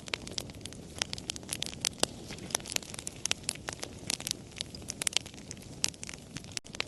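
Campfire crackling: frequent irregular sharp pops and snaps over a steady low hiss of burning, with a momentary break in the sound near the end.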